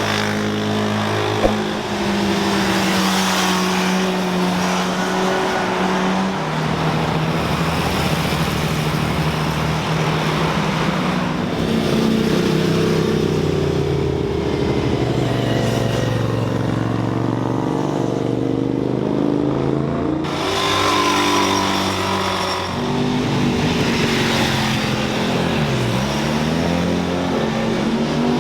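Engines of sport bikes and sports cars driving through corners, one after another, their pitch holding steady, then rising and falling as they accelerate and pass, with abrupt jumps where one clip cuts to the next.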